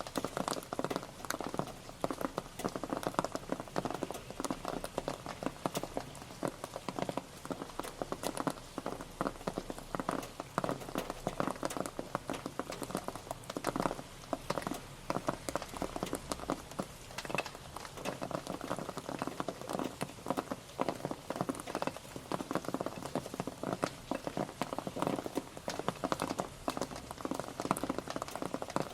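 Rain pattering steadily on a surface: a dense, irregular stream of drop impacts, fairly dull in tone.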